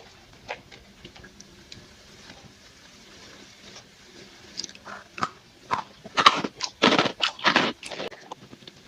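Crisp biscuit sticks being bitten and crunched close to the microphone. A few faint clicks come first, then a run of loud, crisp crunches from about halfway in.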